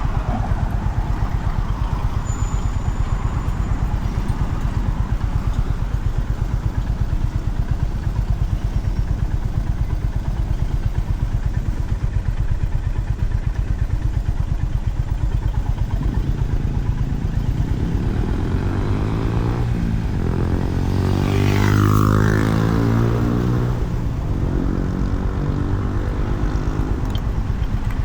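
Honda CB350RS motorcycle's single-cylinder engine running steadily while riding on the road, with a low throb throughout. About three-quarters of the way through the sound swells louder for a few seconds, then settles back.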